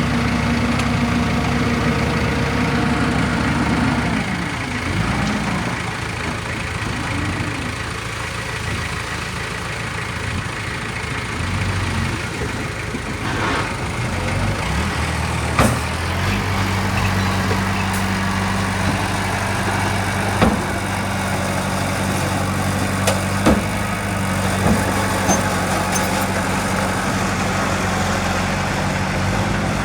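Heavy diesel engine of earthmoving machinery running. Its pitch shifts up and down for a stretch in the middle as it works, and it settles back to a steady idle in the second half, with several sharp knocks there.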